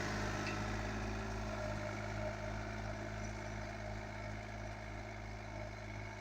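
John Deere 3036EN mini tractor's three-cylinder diesel engine running steadily, slowly growing fainter.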